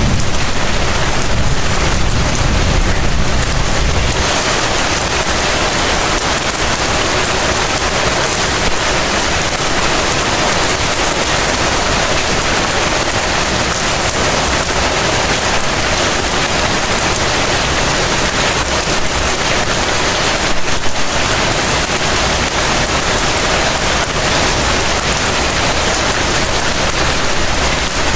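Heavy rain falling in a steady, dense hiss, with a deep low rumble underneath during the first few seconds.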